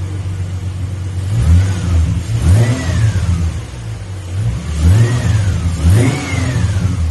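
A 2005 Ford Mustang's engine idles steadily and is revved up and back down several times, its pitch rising and falling with each rev.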